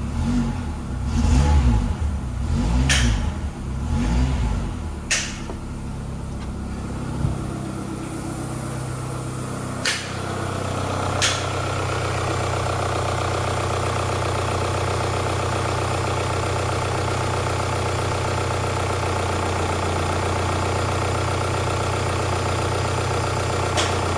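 Renault Scenic 2.0-litre F4R petrol inline-four engine running: an uneven rumble with a few sharp clicks over the first several seconds, then a steady idle from about ten seconds in.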